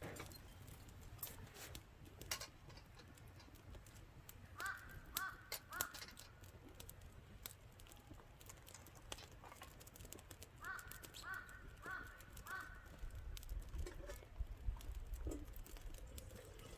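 A crow cawing: three calls in quick succession about five seconds in, then four more about eleven seconds in. Scattered sharp clicks can be heard between the calls.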